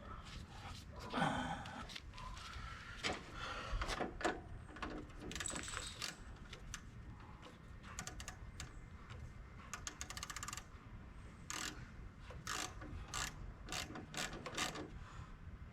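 Ratchet wrench clicking in short runs, with scattered metal clinks of tools and small hardware, as nuts are worked on the terminal posts of a garden tractor's new starter solenoid. A fast run of clicks comes about ten seconds in.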